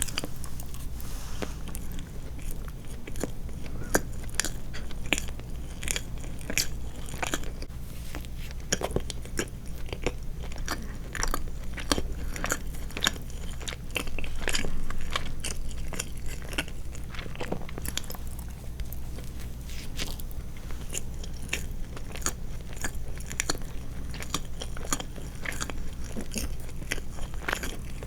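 Close-miked chewing and mouth sounds of someone eating soft sweets, a rapid irregular stream of small wet clicks over a low steady hum.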